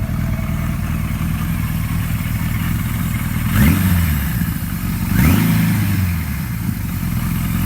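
1980 Kawasaki KZ1000 LTD's air-cooled inline-four engine idling steadily, with two quick throttle blips about three and a half and five seconds in. Each blip rises and falls back to idle, a big sharky roar.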